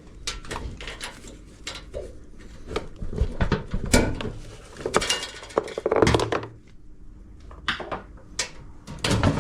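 Metal clinks and knocks from parts being handled inside a washing machine cabinet as the drum's suspension springs are unhooked, with louder clanks about three to four seconds in, around six seconds, and near the end.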